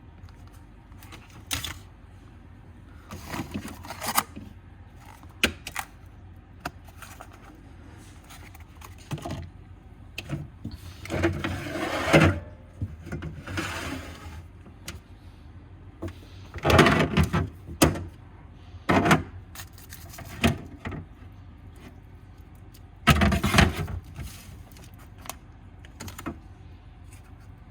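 Food packages and containers being handled and moved around in a refrigerator: irregular knocks, clatters and rustling of packaging, over a low steady hum.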